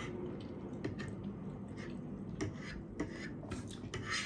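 Quiet eating sounds: chewing and mouth noises with several short, soft clicks.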